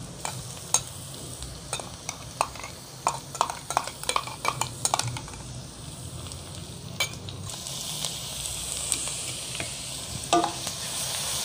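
Onions and green chillies sizzling in oil in a wok while a steel spoon clinks and taps repeatedly against a small steel jar, knocking ground ginger-garlic paste into the pan. From about two-thirds of the way through, the sizzle grows louder and steadier.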